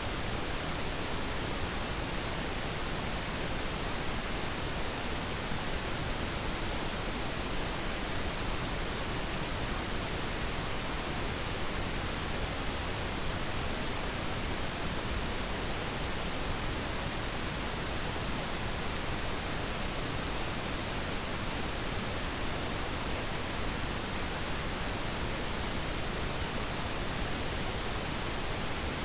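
Steady synthetic pink noise, an even hiss with no changes or other events.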